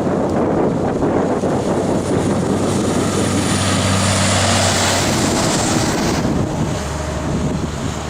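Wind buffeting the microphone. A vehicle's steady low hum and a rushing hiss swell through the middle and die away about six seconds in.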